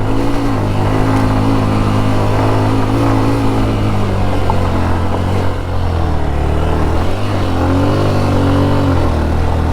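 Motorcycle engine running under load as it climbs a steep hill track, its pitch rising and falling a little as the throttle changes.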